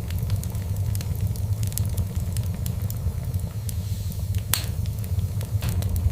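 Fire in a fireplace crackling, with many small sharp pops over a steady low rumble and one louder pop about four and a half seconds in.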